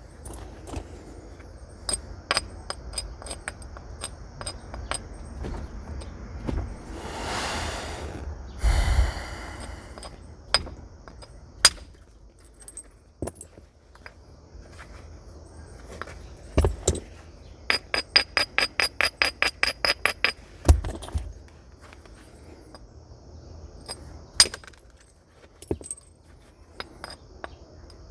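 Flint being knapped with natural tools: scattered sharp clicks of percussion strikes on the stone and clinking flakes, with two short stretches of scraping about seven and nine seconds in. Between about 18 and 20 seconds comes a quick run of light ticks, about five a second.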